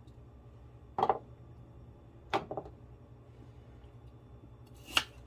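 Kitchen knife chopping through radishes onto a cutting board: three separate sharp chops, about a second in, near two and a half seconds, and near the end, as the radishes are quartered.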